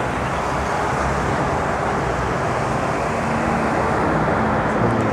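Steady road traffic: the running engines of passing vehicles over a continuous road-noise rumble.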